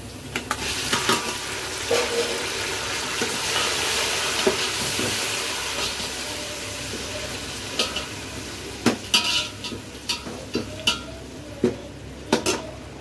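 Chopped tomatoes, green chillies and garlic sizzling in hot oil in a metal pot while a slotted metal spatula stirs them, scraping and clicking against the pot. The sizzle is loudest in the first half and dies down after that, while the spatula knocks grow sharper near the end.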